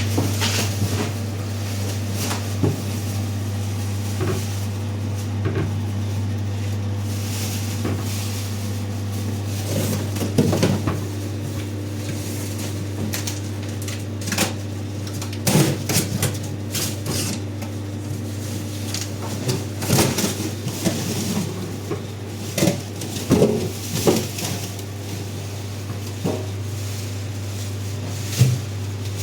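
Scattered clinks and knocks of objects being handled, over a steady low hum.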